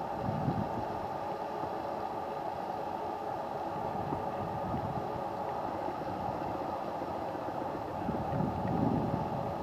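Steady distant traffic noise with gusting wind against a foam-and-fur covered camera microphone; the gusts swell as a low rumble about half a second in and again near the end.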